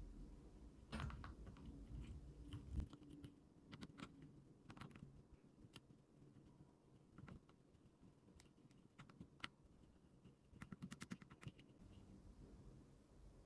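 Faint, scattered light clicks and taps of small items being handled, with a quick run of rapid clicks about eleven seconds in.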